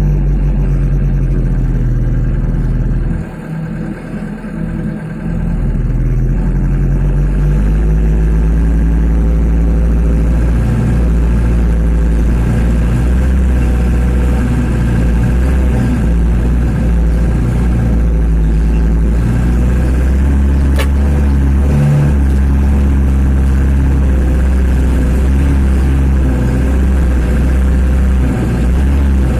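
1995 Mitsubishi Canter single-axle truck's diesel engine running under way. The engine sound drops for a moment about three seconds in, then comes back and runs on steadily.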